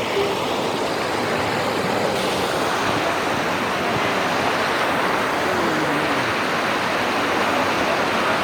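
Rushing water of a rain-swollen stream, a steady even rush, with faint voices in the background.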